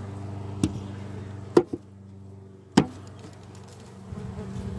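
Three sharp knocks about a second apart over the steady hum of honeybees.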